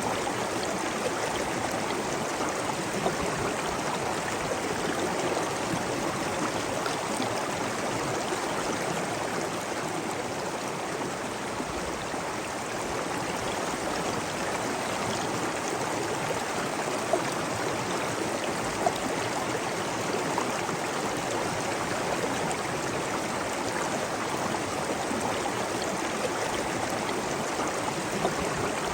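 Running water with a steady, even rush and a few faint clicks scattered through it.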